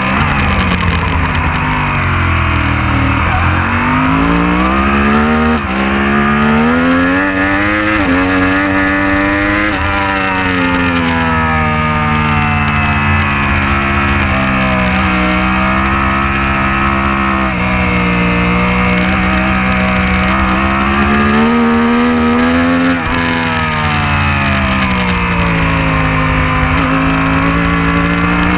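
Racing motorcycle engine at race pace. Its pitch climbs and drops sharply several times in the first ten seconds, as with quick upshifts, then falls away and holds lower. It climbs once more to another sharp drop about 23 seconds in.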